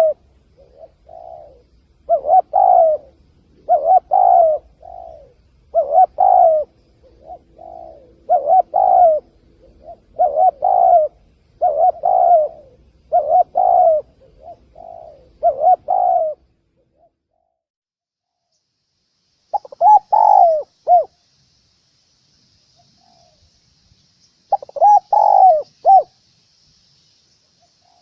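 Spotted dove cooing: a regular series of short coo phrases about every second and a third, with softer notes between them, which stops about sixteen seconds in. After a pause there are two more clusters of coos, with a faint hiss behind them.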